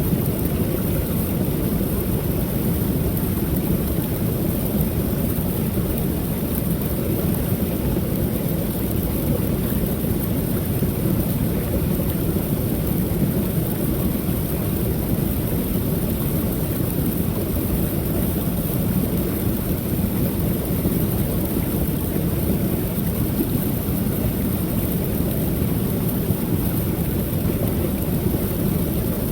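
Creek waterfall: water pouring steadily over the falls in an unbroken, deep rush.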